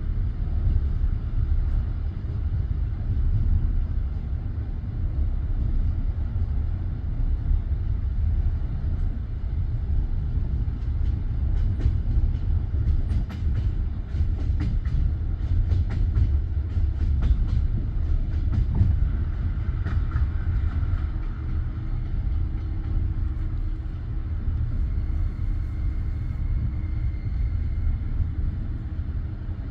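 Train rumbling steadily, with a run of sharp clicks from about twelve to nineteen seconds in.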